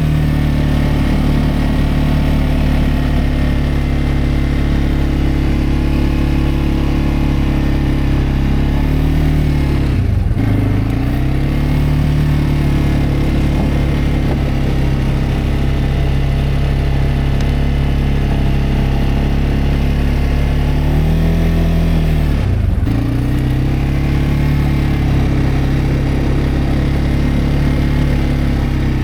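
CFMoto CForce 520L ATV's single-cylinder engine running steadily. Its engine speed drops briefly and recovers twice, once about ten seconds in and again near twenty-three seconds.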